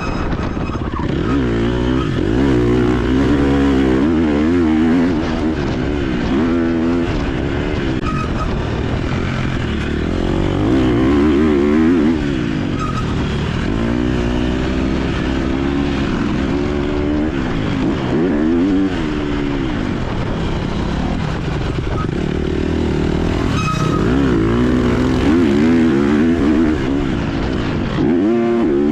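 KTM 250 SX-F four-stroke single-cylinder motocross engine revving hard and dropping off again and again as the throttle is worked, its pitch climbing and falling every second or two.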